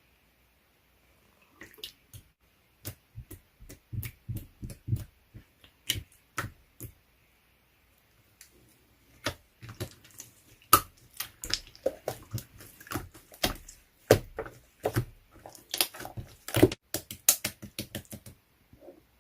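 Slime being squished and pressed by hand, making irregular wet clicks and pops, with a short pause about halfway through.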